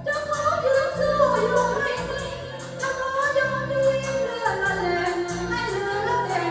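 A woman singing a melody over a band accompaniment with bass and a steady tambourine or cymbal beat.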